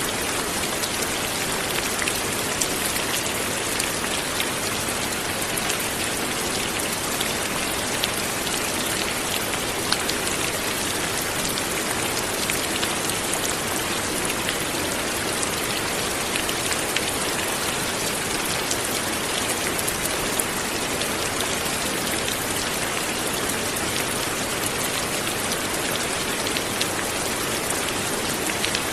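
Light rain falling steadily, a dense even hiss of drops with scattered individual drop ticks.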